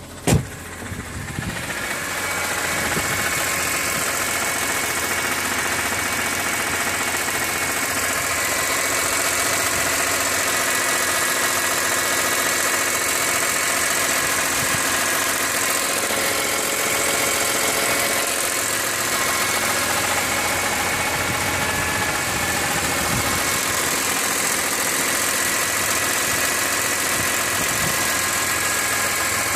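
BMW E46 M3 S54 straight-six engine idling steadily, carrying the abnormal noise that the owner hears once the oil is above 80 °C and wonders could come from the oil pump. A sharp knock sounds just after the start, then the engine sound grows louder over about two seconds and holds steady.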